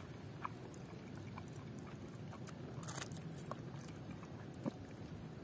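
A person eating seblak ceker, a spicy dish with chicken feet: faint chewing with scattered small clicks, and a brief noisier mouth sound about three seconds in.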